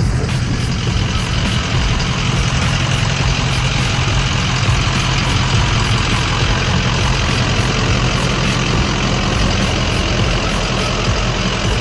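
A vehicle engine running steadily at an even pitch, with a low hum and a hiss over it.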